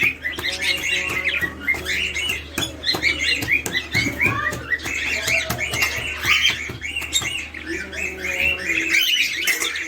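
A flock of small cage birds chirping and twittering together, many short overlapping calls with a few sharp clicks, over a low steady hum.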